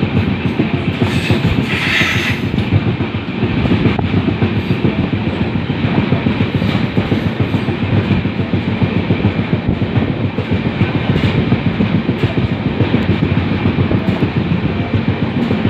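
LHB passenger coach running along the track: a steady, loud rumble of wheels on the rails. A brief higher-pitched sound rides over it about two seconds in.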